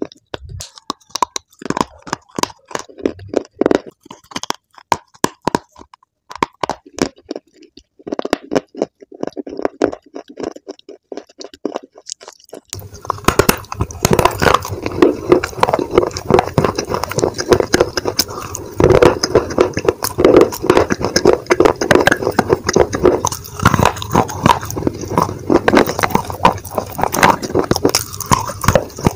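Close-miked chewing and crunching of baked clay pieces in the mouth. At first the crunches come sparse and separate, then after about 13 s they turn dense, loud and continuous.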